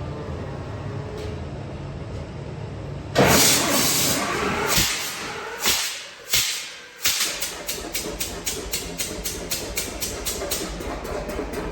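The 920-cubic-inch two-cylinder engine of a John Deere 70 pulling tractor starting: after a steady low hum, it catches about three seconds in with a sudden loud blast, fires a few uneven pops, and settles into an idle of about three to four separate exhaust pops a second.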